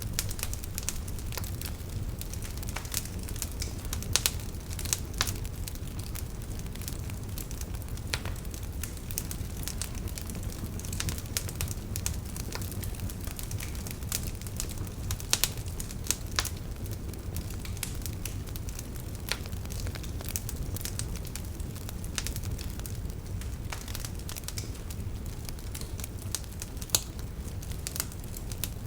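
Wood fire burning in a fireplace: a steady low rumble with constant irregular crackling and a few sharper pops.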